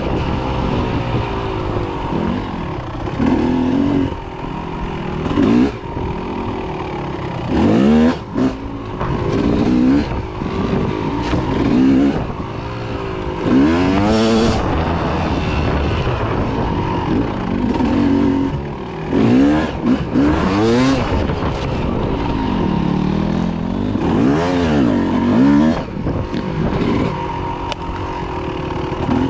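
Dirt bike engine revving up and falling back over and over as it is ridden, the throttle opened and shut every few seconds.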